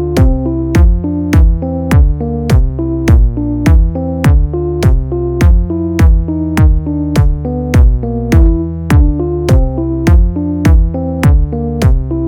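Electronic music: a drum-machine beat with a steady kick just under two hits a second, over a repeating synth bass and chord pattern.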